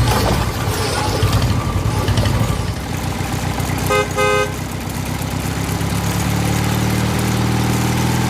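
Tractor engine running steadily, with two short horn beeps about four seconds in.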